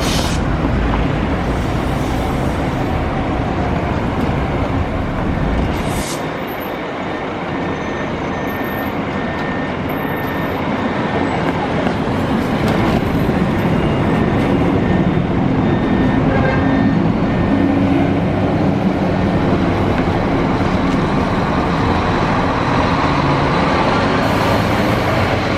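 Scania K440 double-decker coach on the move, with steady engine and road rumble. The rumble eases off about six seconds in and then builds up again as the bus gathers speed.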